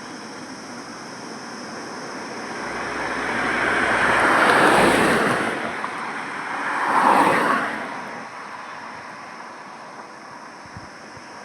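Highway traffic: a steady rush of road noise with two vehicles passing close by in quick succession, the first swelling up and fading over a few seconds around the middle, the second shorter and sharper a couple of seconds later.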